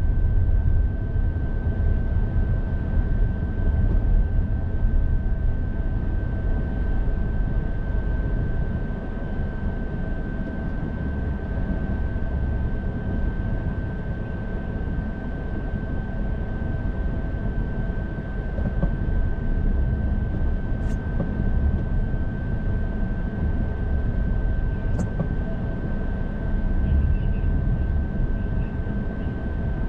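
Car driving, heard from inside the cabin: a steady low road and engine rumble with a constant high-pitched whine over it, and a couple of faint ticks.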